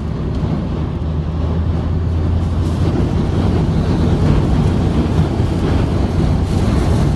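Storm wind rushing and buffeting, growing louder a few seconds in, over the steady low hum of a car's engine.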